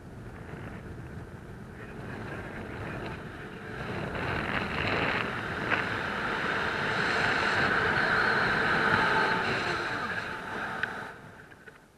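Wind rushing over the microphone, building up over several seconds and then dying away near the end.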